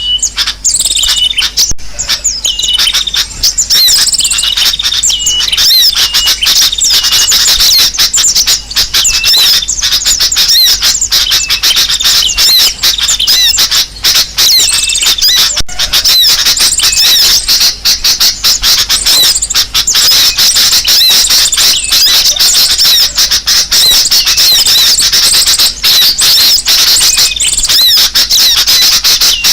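Dense, loud chorus of many small birds chattering and chirping at once, with rapid high squeaky calls overlapping throughout. It is a mixed 'noisy birds' lure recording, played to draw birds of all kinds in.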